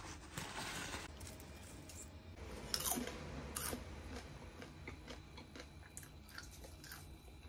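Close-up crunching and chewing of a crisp freshly baked treat: a few sharp crunchy bites about three seconds in, then smaller clicks and chews. A short scraping rustle opens it as the bake is slid off its tray.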